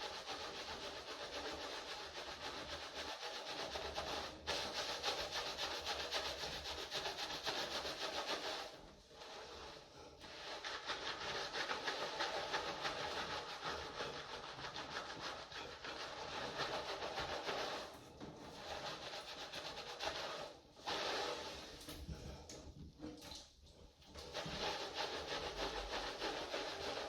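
Hair being washed under running water: a steady hiss of water and rubbing that drops away briefly several times.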